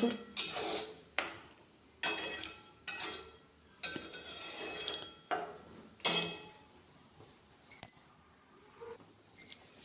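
Metal kitchen utensils clinking and knocking against a cooking pan: about nine separate sharp strikes, a second or so apart, some with a brief metallic ring.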